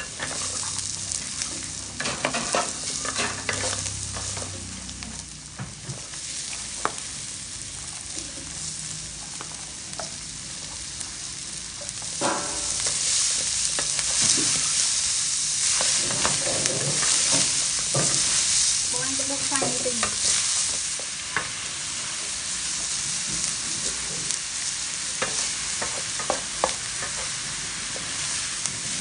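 Pork ribs frying in a steel wok, stirred with a wooden spatula: a steady sizzle with scrapes and knocks of the spatula against the pan. About twelve seconds in, chopped onions go into the hot oil and the sizzle grows louder for several seconds before settling.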